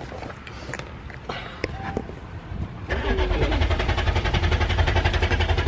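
A stalled tour vehicle's engine is cranked by its starter: a fast, even chugging starts about three seconds in and keeps going without the engine catching. The vehicle has broken down, and the driver is trying to restart it without flooding it.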